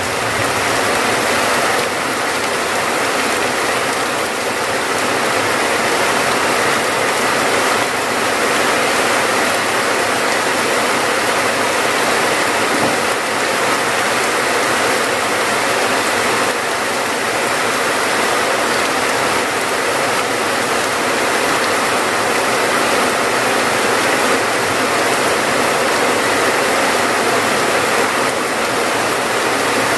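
Steady rain: a dense, even hiss of falling drops that does not let up.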